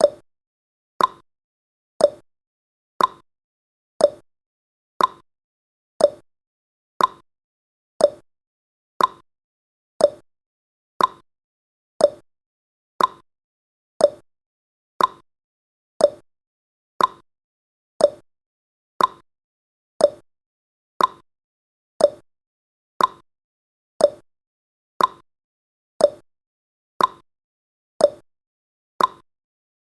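Countdown timer's ticking sound effect: one short, sharp tick each second, evenly spaced, with silence between ticks.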